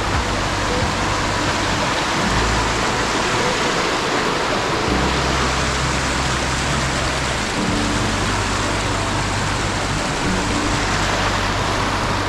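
Loud, steady rushing of stream water, with lo-fi hip-hop music and its low bass notes underneath.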